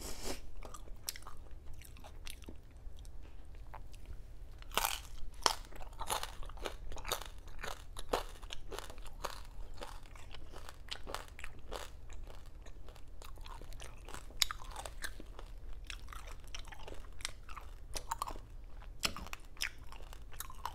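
A person chewing crunchy food close to the microphone, with many irregular crisp crunches and mouth sounds.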